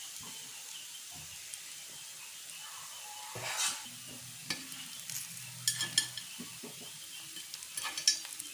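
Kuzhi paniyaram sizzling in oil in a paniyaram pan, a steady hiss. From about three and a half seconds in, a utensil scrapes and clicks against the pan as the cooked paniyaram are lifted out.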